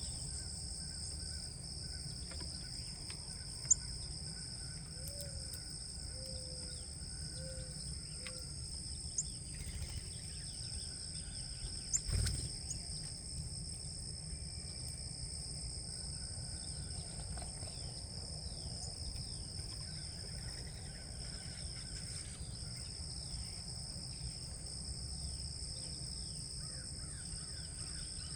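Outdoor feeder ambience: a steady, high-pitched insect chorus in two bands over a low rumble. A few sharp clicks come through, the loudest about twelve seconds in, along with faint, short bird calls.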